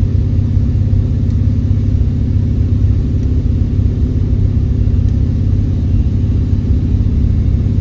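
Hot-rodded 1929 Ford Model A pickup's engine idling with a steady, loud low rumble, heard from inside the cab shortly after a cold start.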